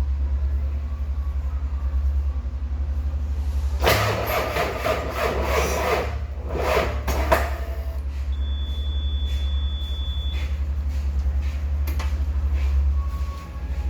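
Komatsu 6D114E-3 six-cylinder diesel engine running steadily with a low, fast-pulsing drone, and a louder burst of rougher noise about four seconds in that lasts around three seconds.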